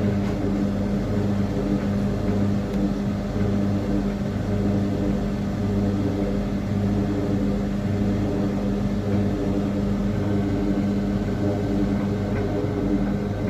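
Portable washing machine motor running its main wash: a steady low hum with a regular pulse roughly once a second.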